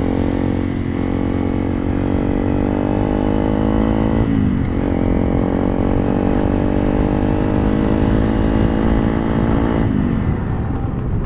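Honda CRF300 Rally's single-cylinder engine running steadily under way, with a quick dip and recovery in engine pitch about four seconds in as a gear is shifted, and the pitch falling near the end as the throttle is closed.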